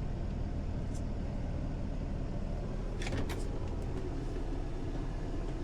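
A truck engine running steadily with a low hum, with a few short faint clicks about one second and three seconds in.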